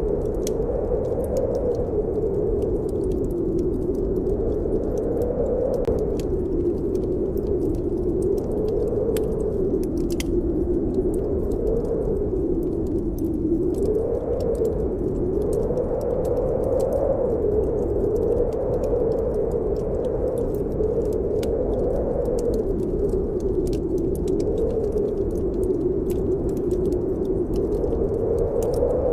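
Snowstorm wind blowing steadily, its pitch swelling and falling every couple of seconds, with a wood fire in a fireplace crackling in many small sharp pops throughout.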